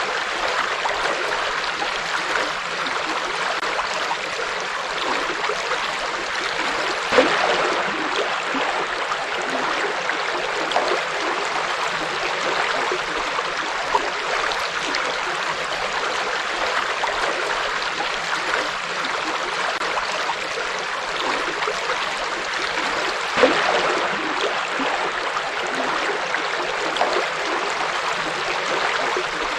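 River water flowing over rocks in a steady rush, with a few brief louder splashes, the clearest about seven seconds in and again near twenty-three seconds.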